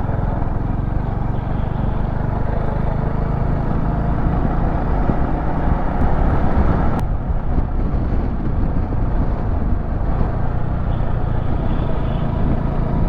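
Motorcycle engine running at a steady cruise, with wind rushing over the microphone. About seven seconds in there is a click and the high hiss drops away.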